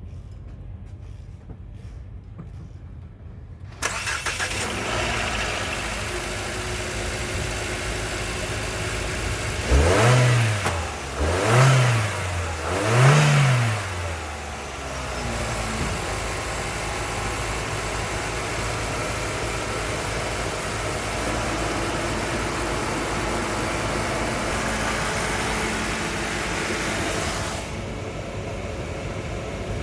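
2017 Mitsubishi Eclipse engine starting about four seconds in, then idling. It is revved three times in quick succession about ten seconds in, each rev rising and falling, and then settles back to a steady idle for an engine test.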